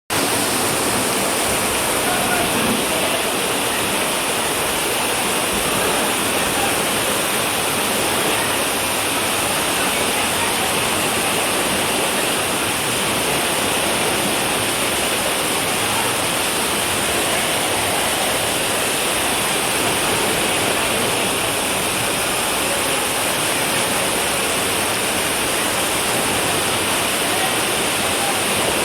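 Rushing floodwater of a river in spate: a steady, dense rush of fast-flowing water.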